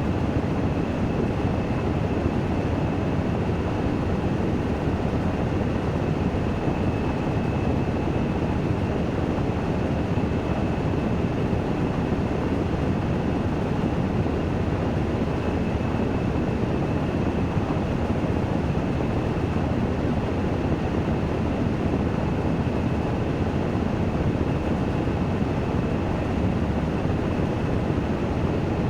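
Washing machine on its spin cycle: a steady, even rushing hum with a faint high whine held throughout.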